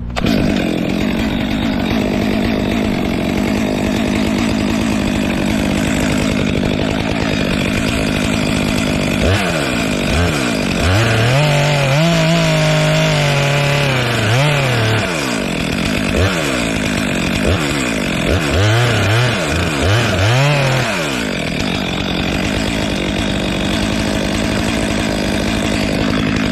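Chainsaw running through a felling cut. Its engine pitch rises and falls several times in the middle as the throttle is worked.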